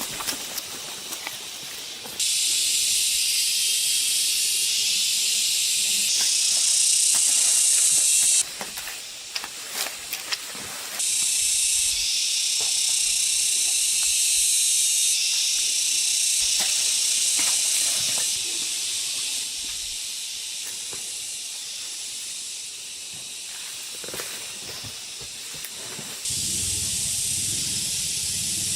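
A steady high hiss that starts and stops abruptly several times, with scattered clicks and knocks in the quieter gaps between.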